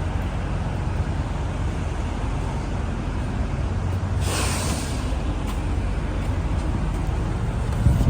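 Diesel semi-truck idling with a steady low rumble. About four seconds in, there is a short hiss of released air, as from an air brake.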